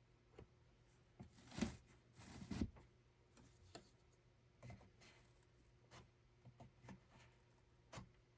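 Soft, scattered knocks, clicks and rubbing of small objects being handled, over a faint steady hum; the two loudest knocks come about one and a half and two and a half seconds in.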